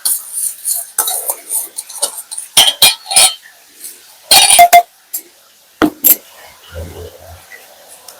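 Dishes and metal utensils clattering and clinking in a quick series of sharp knocks, with one brief ringing note about halfway through.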